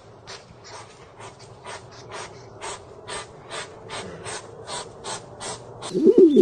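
A quick, even run of short scratchy clicks, about four a second, from an unidentified source; near the end a pigeon starts cooing loudly.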